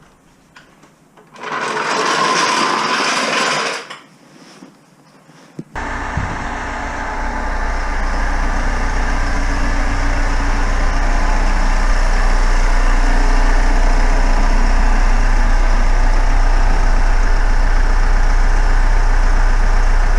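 Renault Kangoo 1.5-litre diesel engine started after a clutch replacement. A two-second burst of noise comes a second or so in. Then about five and a half seconds in the engine fires suddenly and settles into a steady, loud idle.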